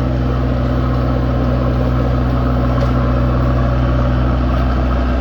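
A machine's engine idling steadily with a low, even hum.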